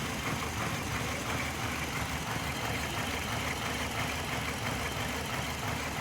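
Hyundai Matrix engine idling steadily under the hood. The engine has an unstable idle and a misfire (code P0302), which the mechanic traces to uneven injection from the fuel injectors.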